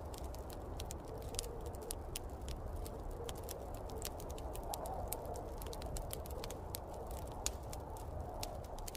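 Wood fire crackling in a fireplace, with many small sharp pops at irregular intervals, over a steady low rumble of snowstorm wind.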